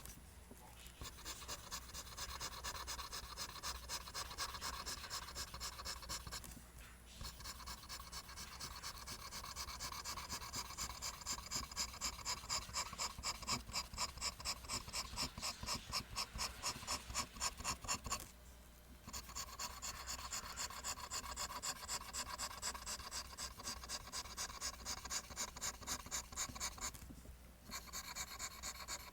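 Pencil scratching on paper in quick, rhythmic back-and-forth strokes, drawing lines. It stops briefly three times.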